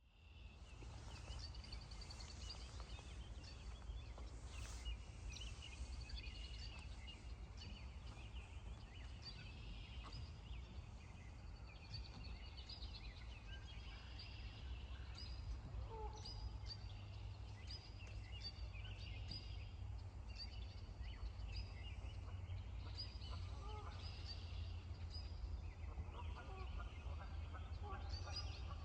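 Small birds chirping and calling over and over, high-pitched, above a low steady rumble. Near the end, geese start honking, with a couple of lower honks also heard around the middle.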